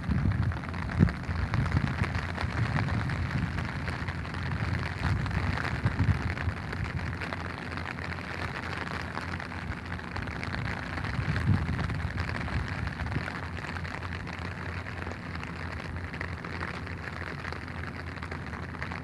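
Steady rain pattering, with irregular low thumps and bumps beneath it, the loudest about a second in.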